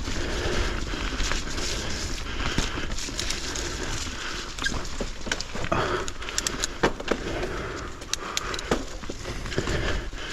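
Mountain bike rolling over a dirt trail: tyre noise with frequent sharp clicks and rattles from the bike over roots and rocks, and a low rumble of wind or vibration on the camera.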